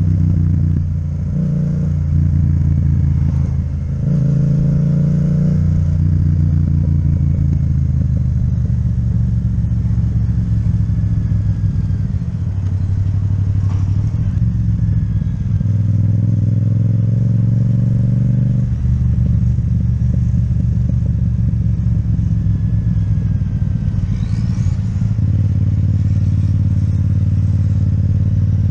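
Yamaha MT-07's parallel-twin engine with an Akrapovic exhaust running under way, its note stepping up and down in pitch several times as the throttle and revs change.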